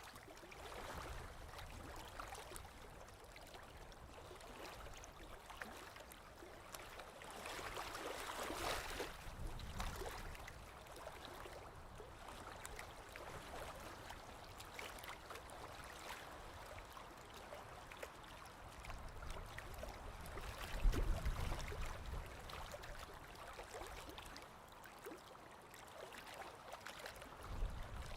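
Small lake waves lapping on the shore in a steady wash that swells and eases. A brief low thump comes about two-thirds of the way through and again near the end.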